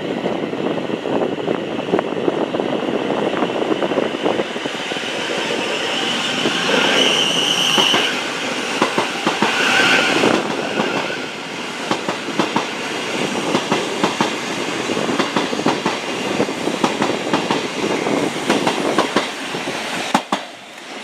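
Electric passenger train passing close by on the tracks below, its wheels clicking in quick, uneven runs over rail joints and points. A brief high whine or squeal rises twice in the middle of the passage.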